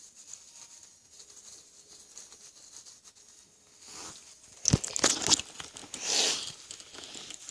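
Rustling and crinkling handling sounds: quiet for about the first four seconds, then a cluster of sharp crackles around five seconds in and a softer rustle just after.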